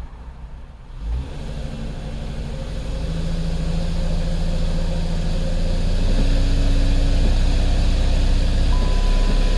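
Chrysler Sebring 2.7-litre V6 engine idling, getting louder over the first few seconds and then holding steady. Cylinder 2 is cutting in and out of misfire, which the mechanic suspects is a bad connection.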